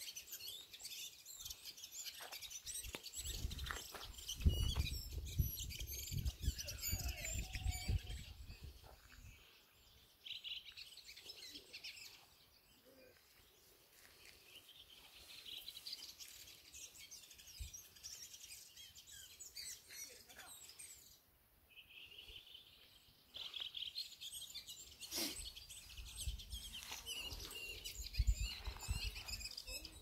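Small songbirds singing and chirping, a dense high twittering that comes and goes, with low rumbles now and then.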